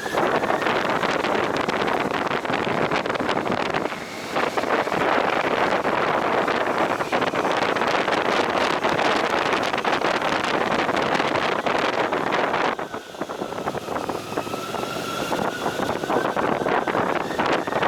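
Wind buffeting the microphone on a moving motorcycle, over steady engine and road noise, with two brief lulls. Near the end a faint whine dips and rises.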